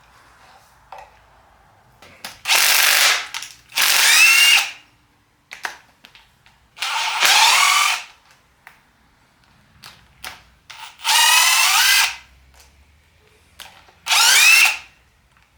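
Cordless power tool on a 12 mm socket running bolts out of the Nissan VG30DETT engine's oil pan area in five short bursts of about a second each. The motor whines up in pitch during each burst.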